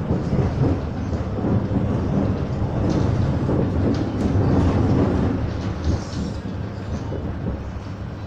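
Interior running noise of an MTR Mid-Life Refurbished Train, a Metro-Cammell electric multiple unit, in motion: a steady low rumble of wheels on track with a low hum underneath.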